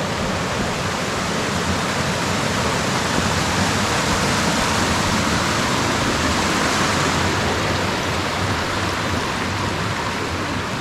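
Steady rush of flowing water, an even hiss that holds level throughout.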